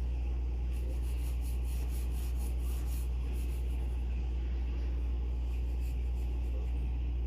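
Pencil scratching on paper in quick strokes, about four a second, from about a second in until about three seconds in, over a steady low hum that is the loudest sound throughout.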